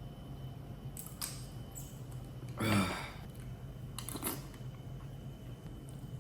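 A few light clicks and taps from handling small kitchen containers while adding ingredients, in two pairs about a second in and about four seconds in, with a brief sound from a person's voice near the middle, over a faint low hum.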